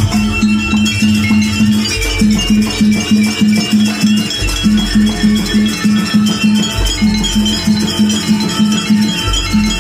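Jaranan gamelan music: a steady pulse of short metallic notes about four a second, a deep gong stroke about every two and a half seconds, and a high melody line over the top.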